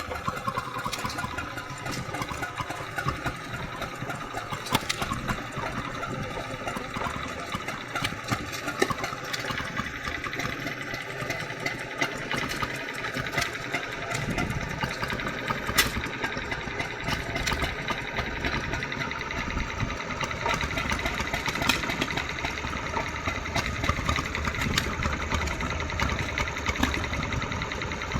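Vintage stationary engine running steadily, a low engine note with frequent sharp clicks and knocks.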